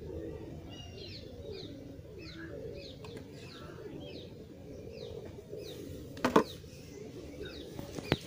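Birds chirping in a run of short falling notes, about two a second, over a lower wavering call. About six seconds in there is a single sharp knock, which is the loudest sound, and a smaller click comes near the end.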